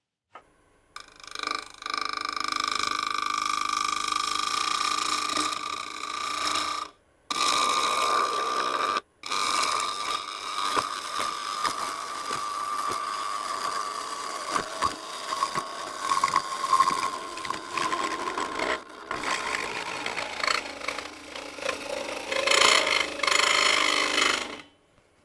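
Bowl gouge cutting the spinning magnolia bowl on a wood lathe: a steady ringing cut with a clear held tone and scattered ticks. It breaks off abruptly twice early on, dips briefly later and stops suddenly near the end.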